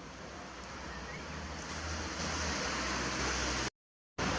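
A steady rushing noise that grows gradually louder and is cut off abruptly near the end, then starts again.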